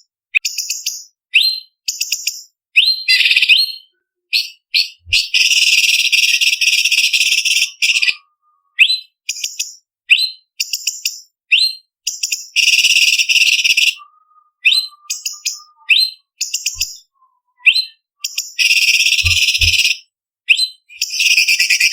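Orange-bellied leafbird (cucak cungkok) singing: quick runs of short, high whistled notes, broken several times by harsh chattering rattles that each last a second or two.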